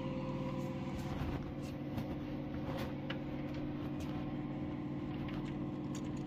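A steady low machine hum with occasional light clicks and taps.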